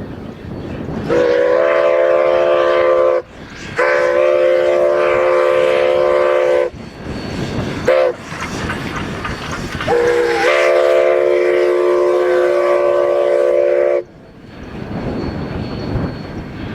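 Steam locomotive 315's whistle sounding two long blasts, one short and one long: the standard grade-crossing signal. Wind noise rushes in between the blasts.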